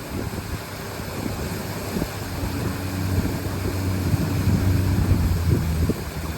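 A river boat's engine running steadily with a low hum, getting louder around the middle, with wind rushing over the microphone.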